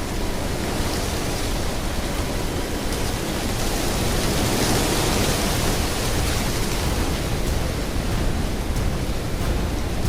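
A steady, dense rushing noise, swelling slightly about halfway through.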